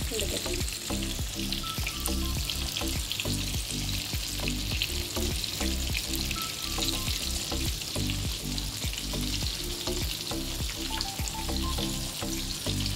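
Crumb-coated chicken cheese balls sizzling steadily in shallow hot oil in a frying pan, with a perforated metal skimmer stirring and turning them.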